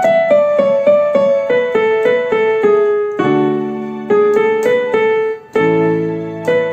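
Electronic keyboard with a piano voice playing a melody of single notes that step downward. A held chord with low notes comes in about three seconds in, and again near the end.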